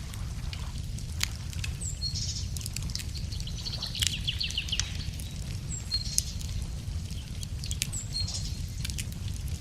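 Wood fire crackling, with irregular sharp pops and snaps over a steady low rumble. A songbird sings a short high phrase several times.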